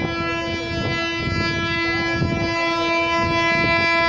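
WAP-4 electric locomotive's air horn sounding one long, steady blast over the noise of the moving train.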